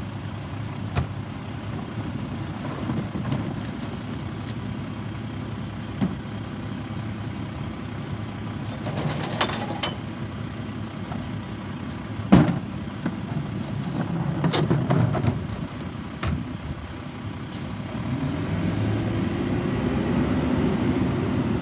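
Garbage truck's diesel engine running, with scattered metallic clanks and bangs; the sharpest bang comes about twelve seconds in, and the engine revs up near the end.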